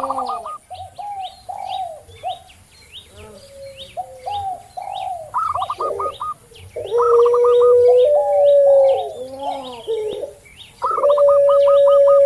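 Several doves cooing together: a puter pelung's long, level coos, a zebra dove's quick stuttering trills, and a spotted dove's arched coos, overlapping, with the longest held coos about seven seconds in and again near the end. Small birds chirp high and rapidly throughout.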